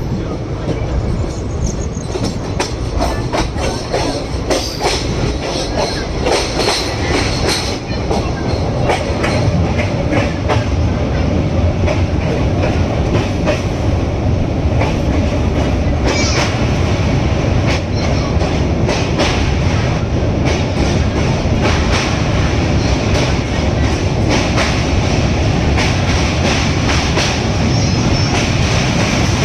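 Train rolling along the rails: a continuous rumble with wheels clicking over rail joints, growing a little louder about eight seconds in.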